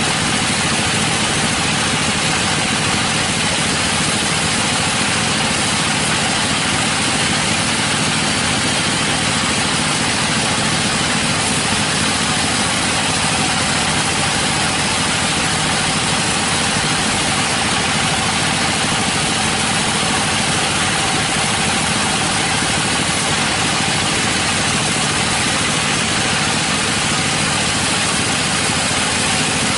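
Sawmill machinery running: a loud, steady engine-like drone that holds without any break or change.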